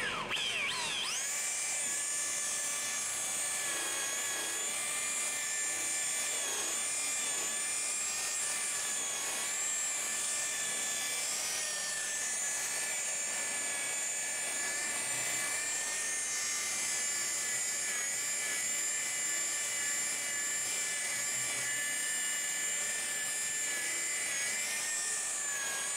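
Electric polisher's motor spinning up in the first second, then running at a steady high whine while polishing oxidised plastic cowl trim.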